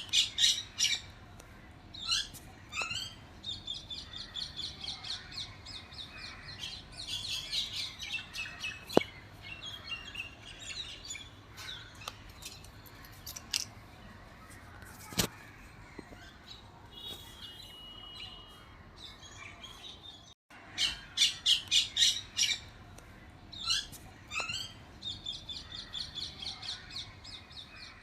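Parrots calling in fast runs of repeated, shrill squawks, with pauses between the runs. Two sharp clicks are heard about a third and halfway through, and the sound drops out for a moment about two-thirds in.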